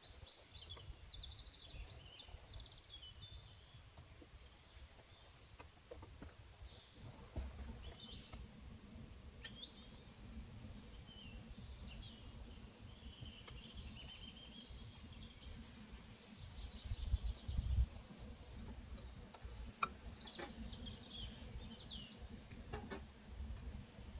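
Small birds chirping and calling on and off, short high chirps and quick glides from several birds, over a low rumble that swells briefly about two-thirds of the way in, with a few faint clicks.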